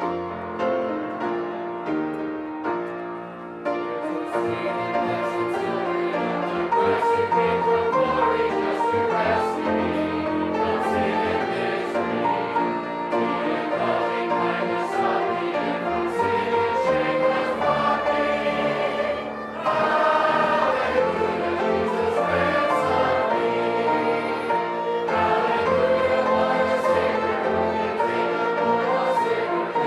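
A congregation singing a hymn with piano accompaniment. The piano plays alone at first, the voices come in about four seconds in, and there is a short break about two-thirds of the way through.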